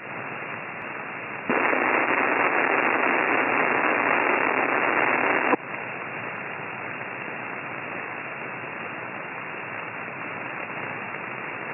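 Received radio signal with no voice on it: a steady, narrow-band hiss of static. It jumps louder about a second and a half in and drops back to a quieter hiss about five and a half seconds in.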